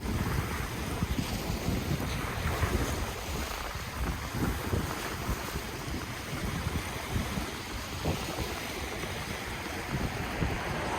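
Ocean waves washing in steadily, with wind gusting on the microphone as a low rumble.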